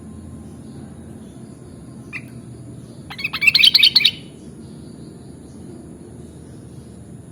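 Sooty-headed bulbul (kutilang) giving one short note, then about a second later a quick burst of rapid chirping notes lasting about a second, over a steady low background rumble.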